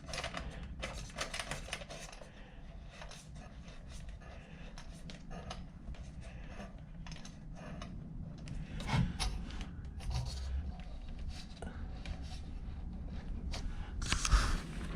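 Hands working electrical wires and a light fixture against a wall box: scattered light clicks, taps and rubbing, with a louder clatter near the end.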